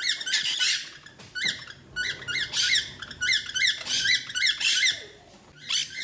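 Small pet parrots in a cage chirping and squeaking in quick runs of short, high rising-and-falling notes, several a second, easing off about five seconds in before one more burst near the end.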